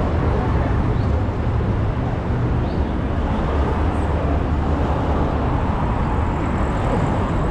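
Street traffic noise: a steady low rumble of vehicle engines with road noise.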